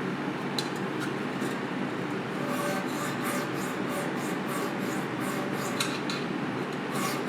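Rhythmic rubbing strokes of sanding on a pressed-steel toy truck body, settling into about three strokes a second after a couple of seconds, over a steady rushing noise.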